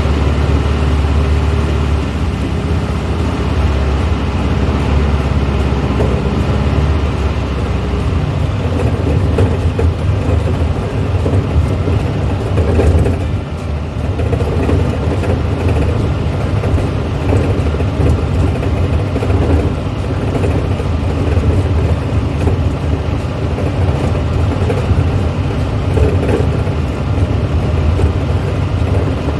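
A 1970s Volkswagen's engine running steadily while the car is driven, heard with road noise.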